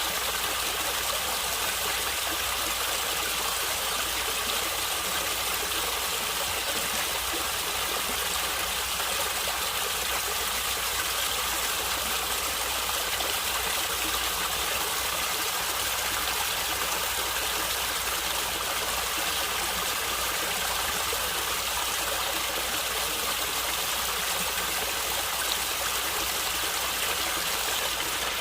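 Water of a natural stream flowing and gurgling, a steady, unchanging rush.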